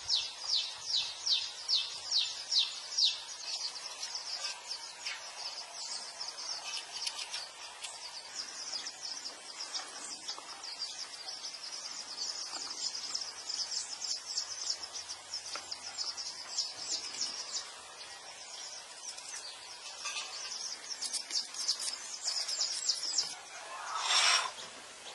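Birds chirping outdoors: a quick series of short high chirps, about three a second at first, then a denser run of chirping. A short, loud rasping burst comes near the end.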